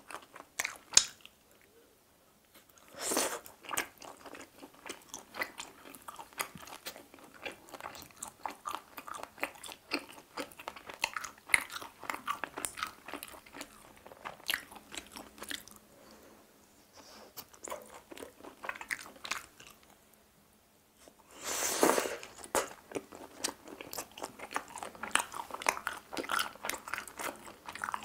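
Close-miked mouth sounds of eating grilled chicken heart skewers: biting the meat off wooden skewers and chewing, with dense small clicks and wet smacks. There are two louder bursts, one a few seconds in and another about two-thirds of the way through.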